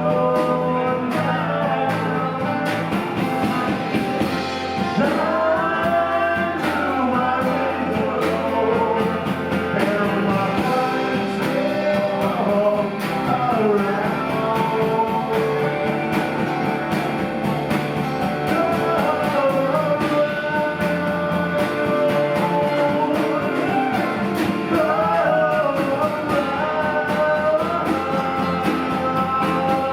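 A live rock band playing full-band music: guitars, bass and drums, with a melodic lead line bending and wavering over the top.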